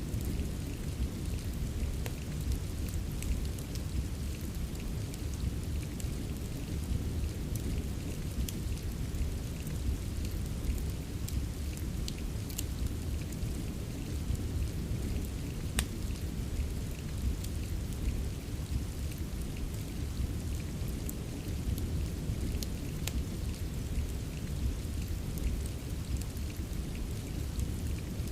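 Steady rain ambience with a deep, constant low rumble, mixed with scattered sharp crackles from a fireplace; one crackle about halfway through stands out.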